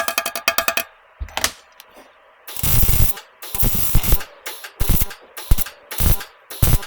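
Arc welder laying short, stop-start bursts of weld onto the thin, rust-eaten stainless steel exhaust pipe, each burst a harsh crackle lasting about half a second, five or six of them from about two and a half seconds in. Before that, a fast, even pulsing sound that stops about a second in.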